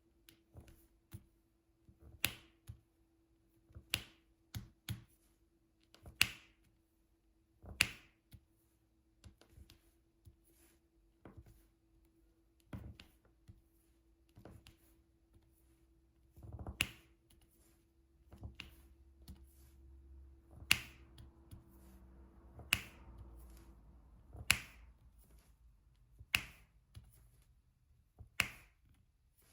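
Diamond painting drill pen tapping resin drills onto the sticky canvas: sharp clicks, the loudest every second or two, with softer clicks in between, over a faint steady hum that stops near the end.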